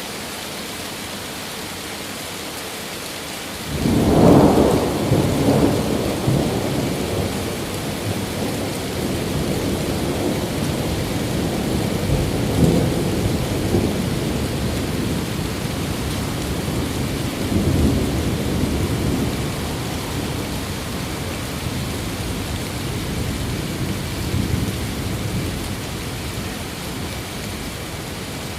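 Steady rain, with thunder breaking in suddenly about four seconds in as a long, deep rolling rumble. The rumble swells again several times and slowly fades.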